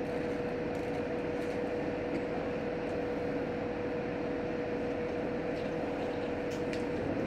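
H100 diesel-electric railcar standing with its engine idling: a steady hum with one constant tone. Right at the end the engine note changes and grows louder.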